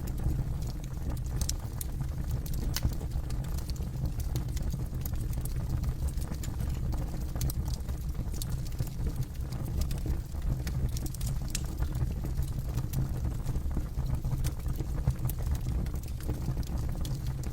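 Campfire burning: a steady low rumble under frequent, irregular sharp crackles and pops of burning wood.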